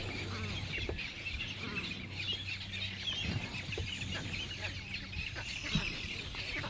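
Many birds calling at once, a continuous chatter of short, overlapping high chirps, over a faint steady low hum.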